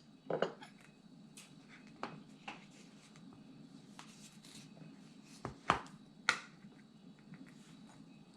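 A spoon and small bowl being handled: a handful of short, light clicks and knocks at uneven intervals, the sharpest two a little over halfway through.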